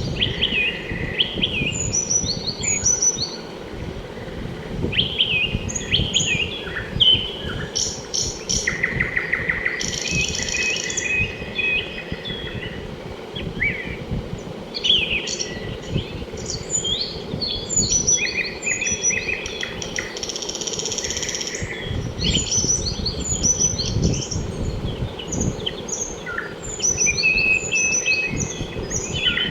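Birds chirping and calling: many short chirps, quick trills and rapid repeated notes overlapping throughout, over a steady low background noise.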